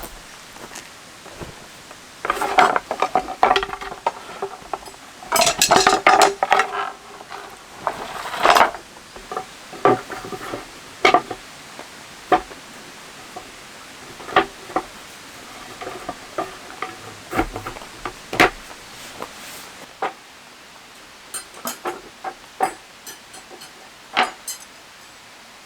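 Metal cookware and utensils clinking and clattering: a string of sharp knocks with short metallic ringing, busiest in two rattling stretches in the first third and sparser after. A steady hiss of rain runs underneath.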